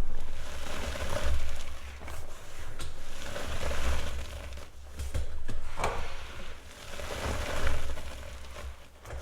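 Gym chalk being crushed and crumbled by hand into powder: a dry crunching that comes in repeated swells, with a few sharp cracks.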